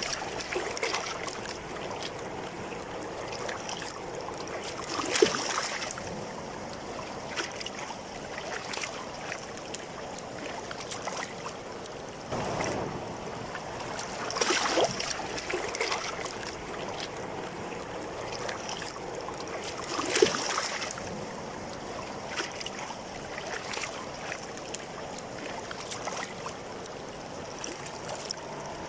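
Waterfall water rushing steadily, with louder splashing surges several times.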